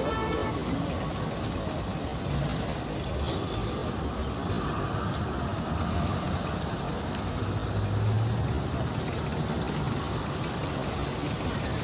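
Road traffic noise: vehicles running and passing in a steady din, with a stronger low engine hum about eight seconds in.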